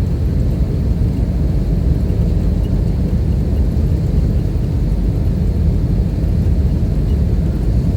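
Steady low rumble inside the passenger cabin of an Airbus A320-214 airliner.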